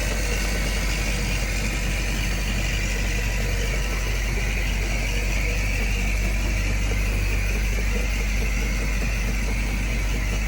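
Diesel engine of a construction machine running steadily, a continuous even hum with no clear changes in speed.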